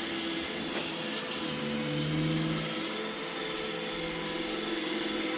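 iRobot Roomba E6 robot vacuum running: a steady whir of its vacuum motor and brushes with a constant hum, briefly a little louder with a lower tone about two seconds in.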